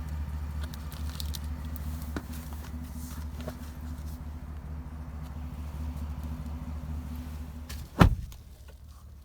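Low, steady rumble of the GMC Sierra pickup running, with a few light clicks. About eight seconds in there is one loud thump, like a door shutting, and the rumble stops with it.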